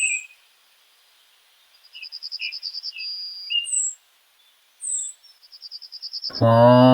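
High birdsong: quick down-slurred chirps, short whistled notes and two rapid trills. Near the end a cow starts mooing loudly.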